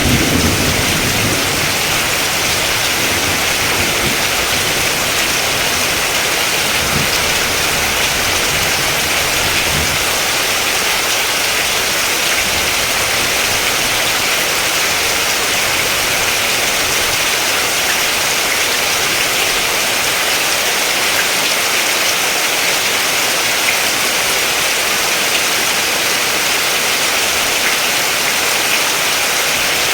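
Steady, even rain hiss. A low rumble of thunder dies away over the first ten seconds or so.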